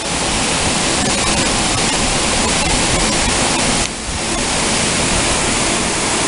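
Heavy rain pouring down: a loud, dense, steady hiss that dips briefly about four seconds in.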